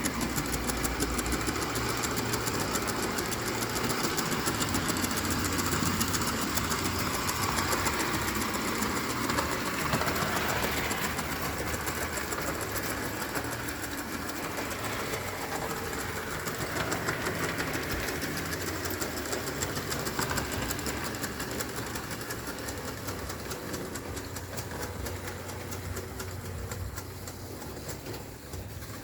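Live steam 0 gauge tinplate model locomotive running on track: a fast, even chuffing rattle of the steam engine and wheels, getting gradually quieter over the last third.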